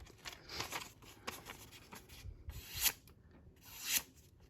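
A freshly stropped Benchmade knife's edge slicing through a sheet of paper in several strokes. Each stroke is a rising papery hiss that cuts off sharply, the two loudest about three and four seconds in. The clean slices show the edge is now sharp.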